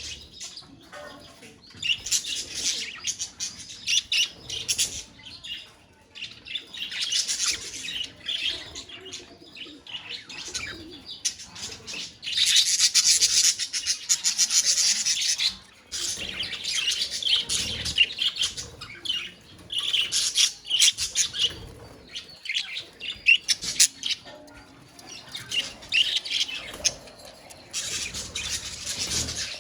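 A colony of budgerigars chattering and warbling together, in spells of busy chirping a second or two long with quieter gaps between, the busiest spell about halfway through.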